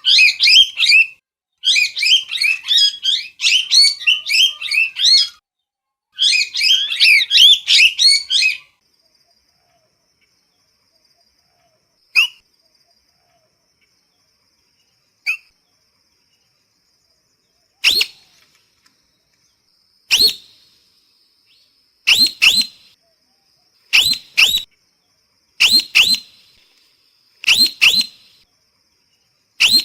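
Parrot calling: a dense run of rapid, chattering squawks for the first eight seconds or so, then a pause with two short single calls. From about eighteen seconds, loud, sharp shrieks repeat roughly every two seconds.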